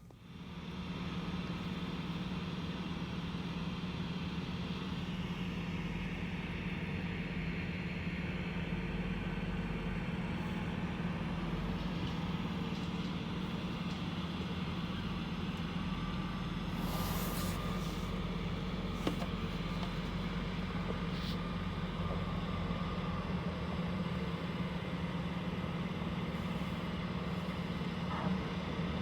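A dump truck's engine running steadily at a constant pitch, with a brief hiss and a few short clicks about two-thirds of the way through.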